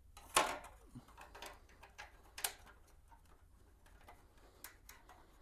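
Scattered light clicks and taps of bolts and a wheel trim cover being handled, the sharpest about half a second in.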